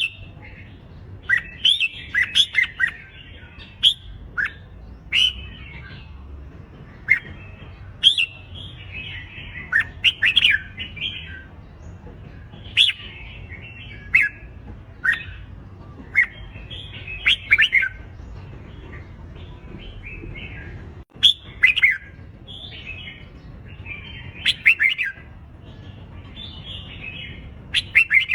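Red-whiskered bulbuls singing competitive fight song: short, loud, warbling phrases that come one after another every second or two.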